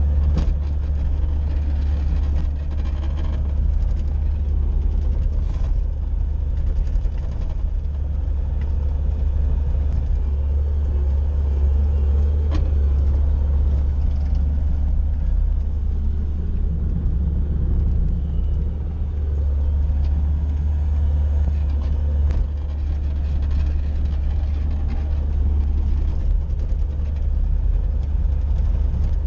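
Bobcat skid-steer loader's engine running steadily as a low drone, with a few faint knocks.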